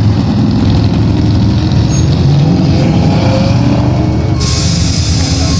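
Several vehicles' engines rumbling loudly as a group of cars drives in. A loud hiss starts near the end.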